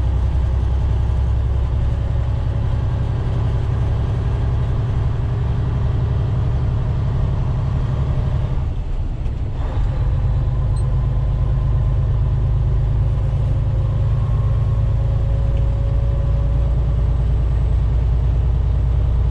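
Semi-truck diesel engine running steadily while driving, heard from inside the cab as a deep steady hum, with a brief drop in level about halfway through.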